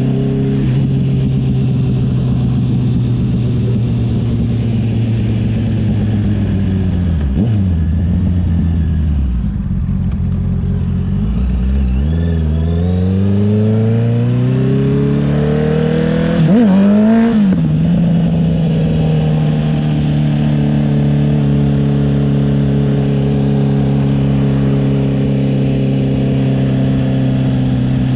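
Honda CB650R inline-four engine through a CS Racing aftermarket exhaust, ridden at a steady cruise. The engine note drops as the bike slows about seven seconds in, then climbs as it pulls away, with a brief louder rev flick at a gear change near the middle before it settles back to a steady cruise.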